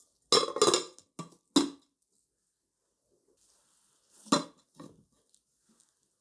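Kitchen dishes and utensils knocking and clinking: a quick cluster of clattering knocks in the first second or so, then two more around four to five seconds in.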